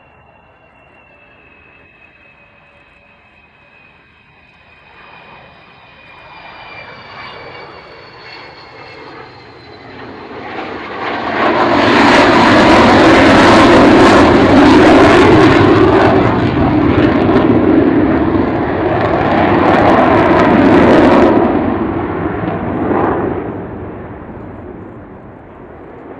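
Avro Vulcan's four Olympus turbojets passing overhead. A faint, slightly falling whistle comes first, then the engines swell into a loud roar that holds for about ten seconds before fading away.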